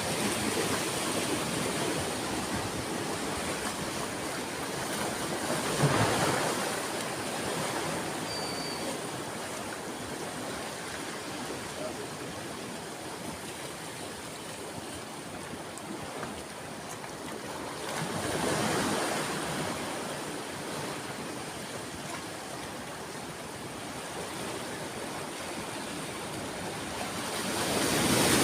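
Ocean waves breaking and washing on a shore, a steady rush of surf. Waves break louder about six seconds in, again a little after halfway, and near the end.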